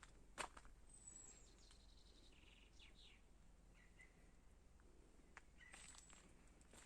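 Faint outdoor birdsong: a few short high chirps and trills from small birds, with one sharp step or knock just after the start.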